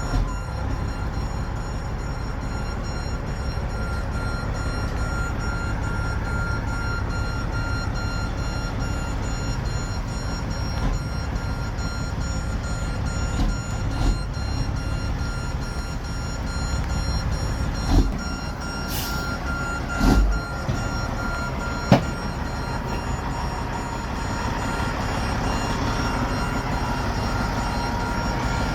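Diesel dump truck backing up: its reversing alarm beeps over the steady run of the engine, with a few sharp knocks and a brief hiss in the second half.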